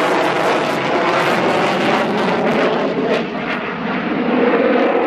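Fixed-wing aircraft flying past with loud engine noise, dipping briefly about three seconds in and swelling again near the end.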